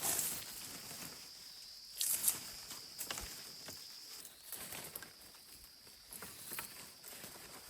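Steady high-pitched chirring of insects, with scattered light knocks and rustles; the loudest come right at the start and about two seconds in.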